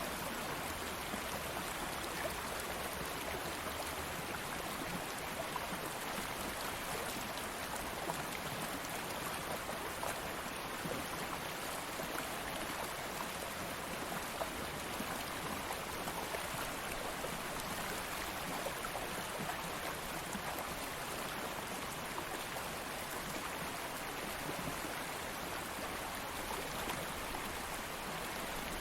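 Stream of water flowing steadily over stones, a continuous even splashing and burbling with small droplet-like ticks.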